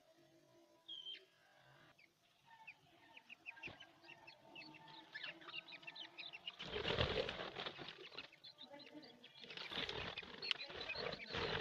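A colony of budgerigars chirping and chattering in quick, high calls, with louder wing-fluttering bursts in the second half.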